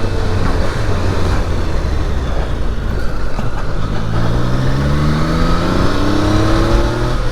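Triumph Daytona 660's inline three-cylinder engine running under way, over a rush of wind and road noise. About four seconds in it accelerates, its pitch rising steadily for about three seconds.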